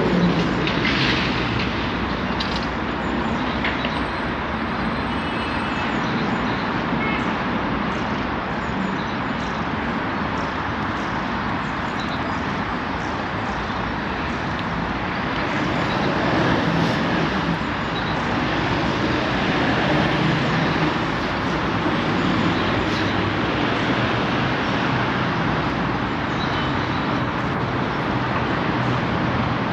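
Steady rumble of vehicle noise, swelling a little about halfway through.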